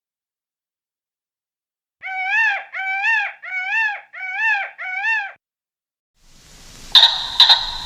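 An animal calling five times in quick succession, each call a short rising-then-falling whine of about half a second. Two sharp clicks follow near the end over a faint rustling background.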